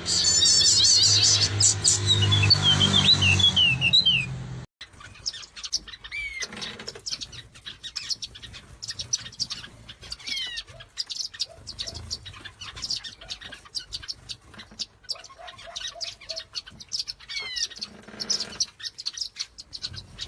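Small birds chirping and twittering in quick, high notes. About four and a half seconds in, one recording cuts abruptly to another: the first has a low hum beneath the chirps, and the second is quieter, with a short falling whistle now and then.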